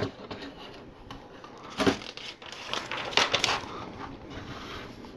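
Plastic LEGO pieces being handled: scattered sharp clicks and light rustling, with a small cluster of clicks about three seconds in.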